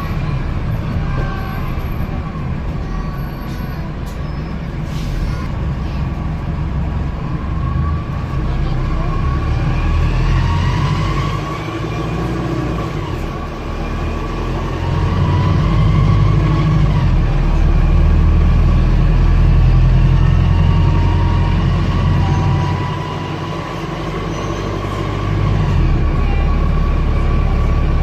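Wright StreetDeck bus's Mercedes OM934 engine and drivetrain running under way, heard from on board, with a loud grinding noise. Heavy rumble throughout, with whining tones that rise and fall as the bus speeds up and slows, loudest in the second half.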